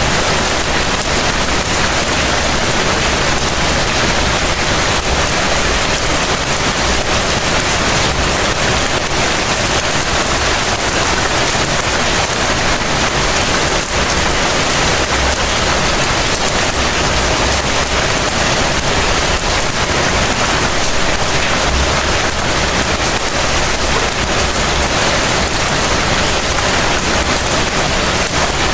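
Heavy rain falling steadily: a dense, even hiss of rainfall with no break or change.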